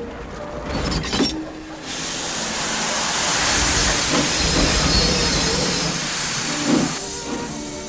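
Steam locomotive letting off steam: a loud, steady hiss that swells about two seconds in and dies away near the end.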